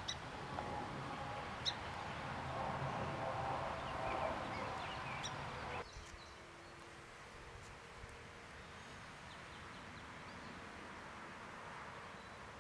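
Bird calls over outdoor background noise. The sound cuts off abruptly about six seconds in, leaving quieter outdoor ambience with a few faint chirps.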